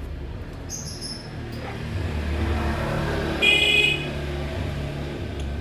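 Low rumble of passing road traffic that swells toward the middle, with a few short high bird chirps about a second in and a loud, harsh, buzzy half-second call a little past the middle, typical of a lovebird.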